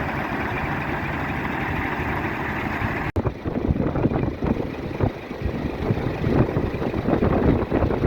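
Scania R 420 truck's inline-six diesel engine idling steadily. About three seconds in the sound cuts out for an instant, and after that it turns uneven and fluttering.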